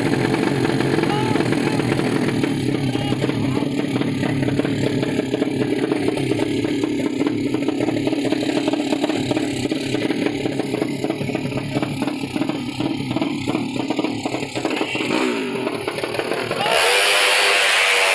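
Racing underbone motorcycle engines, 200cc horizontal-cylinder builds, running steadily. About 17 s in the sound turns suddenly louder and higher as an engine revs hard.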